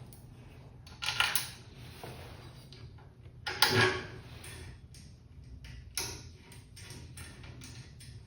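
Metal parts clanking and knocking three times as they are handled and set together in assembly, over a low steady hum.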